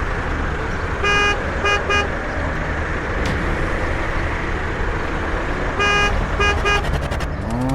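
Vehicle horn honking in two groups of three beeps, a longer one followed by two short ones, over a steady engine running.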